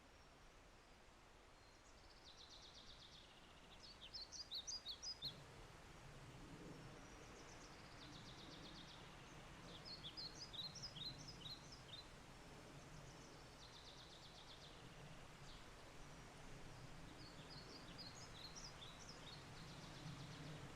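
A songbird singing the same phrase three times, a buzzy trill followed by a quick burst of high chirps, over a faint steady hiss of light rain.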